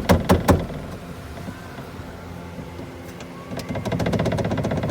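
Mercedes-Benz A-Class (W168) door rattling: after a few sharp knocks at the start and a low steady hum, a loud fast rattle sets in about three and a half seconds in and keeps going. This rattle happens only with the door window half open and stops with the glass fully open or fully closed.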